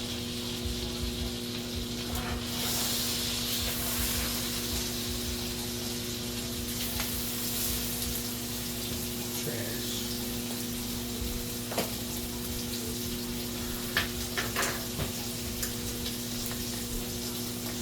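Steaks sizzling in a hot pan, a steady frying hiss, with a steady hum beneath and a few light clicks near the end.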